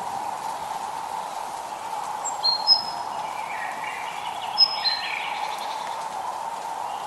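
Birds chirping over a steady hiss of light rain, with short, high whistled notes about two and a half seconds in and again around four and a half seconds.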